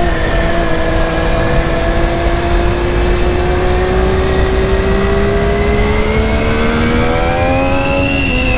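2020 MV Agusta F3's three-cylinder engine pulling in first gear, its revs climbing slowly for several seconds and dipping slightly near the end, with steady wind rush over the microphone.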